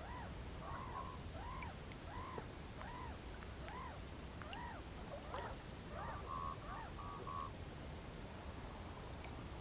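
Whooper swans calling: a run of honking notes that rise and fall, about one every three-quarters of a second. After about six seconds come three short level notes, then the calling dies away for the last couple of seconds, over a steady low rumble.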